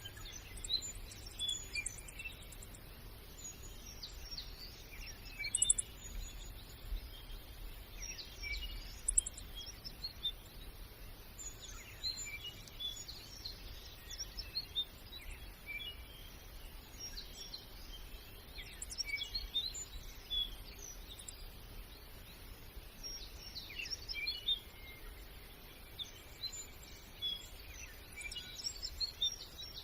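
Small songbirds chirping and twittering in scattered bursts of short high calls, over a faint low steady rumble.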